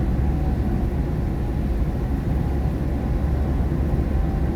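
Steady low rumble of a car driving on a rain-wet highway, heard inside the cabin: tyre and engine noise with a faint hiss from the rain.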